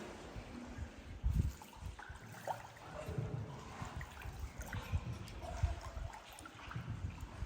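Water splashing and trickling around a small paddled boat, with irregular low bumps.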